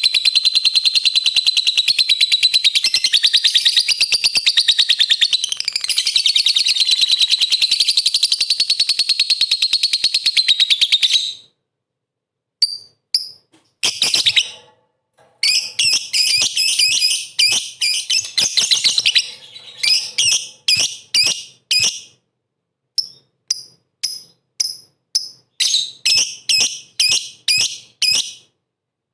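Lovebird singing in full, fast song (the 'gacor' song used as a bait recording to rile other lovebirds): a long unbroken run of rapid high chirps for about eleven seconds, a brief pause, then shorter bursts and many separate quick chirp phrases.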